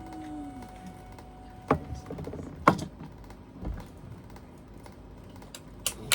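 Sparse modular synthesizer sounds at the close of a piece: a held tone and a falling gliding tone fade out in the first two seconds, then a few separate sharp clicks and one low thump.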